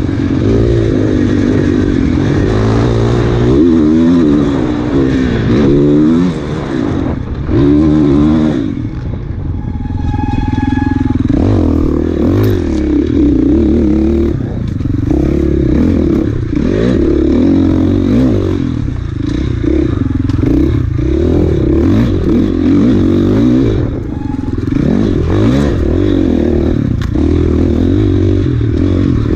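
Enduro dirt bike's engine ridden hard on a trail, revs rising and falling constantly as the throttle is worked, easing off briefly about nine seconds in, with clatter and scraping from the bike over rough ground.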